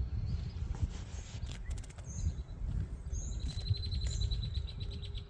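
Songbirds chirping, and about three seconds in one starts a fast, even trill. Under them runs a steady low outdoor rumble.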